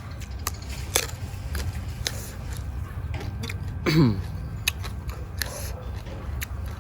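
A person eating, with scattered clicks and crunches of chewing over a steady low rumble. About four seconds in comes a brief falling vocal sound, the loudest moment.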